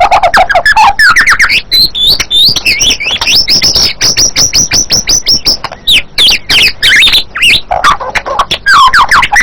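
White-rumped shama singing: a continuous, fast run of varied whistled notes and rapid chattering phrases, sweeping up and down in pitch.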